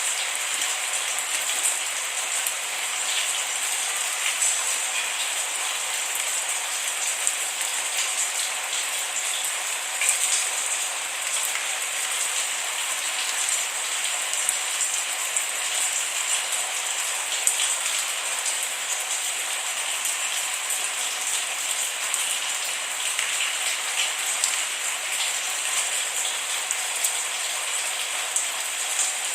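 Steady rain falling, a dense patter of drops with no thunder.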